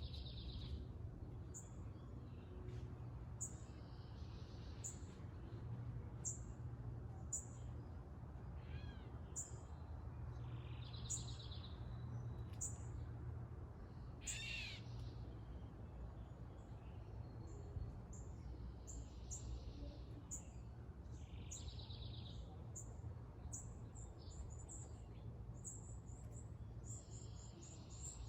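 Wild birds calling and singing: short high chips repeated about once a second, with brief trilled phrases and one sharp sweeping call about halfway through, over a steady low hum.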